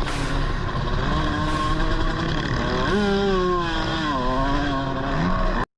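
Motocross bike engine running, revving up sharply about three seconds in and easing back down, then cutting off abruptly near the end.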